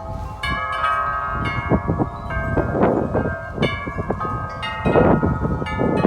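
Wind chimes ringing hard in a strong gust, many tones struck over and over and overlapping. Wind rumbles on the microphone underneath, with louder rushes about three and five seconds in.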